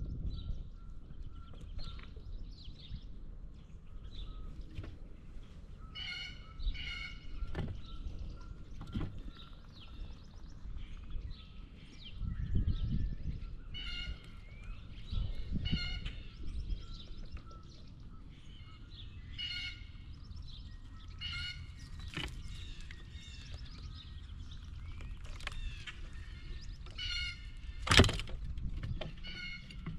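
Blue jays calling over and over outdoors, harsh calls in pairs and short runs, with a sharp knock near the end.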